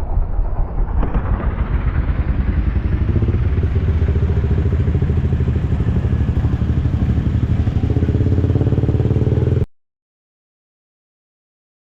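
An engine running steadily with a fast pulsing beat, then cut off abruptly near the end, leaving total silence.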